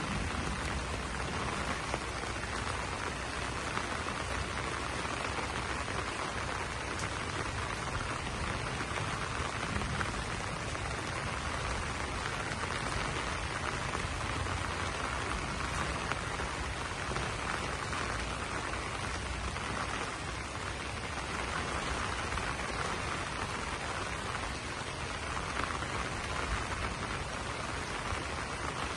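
Steady rain falling on banana leaves, a dense, even patter of drops.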